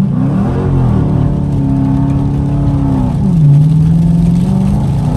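Car engine under full throttle, floored from a stop with traction control off: the engine pitch climbs and holds high, drops about three seconds in at a gear change, then climbs again near the end.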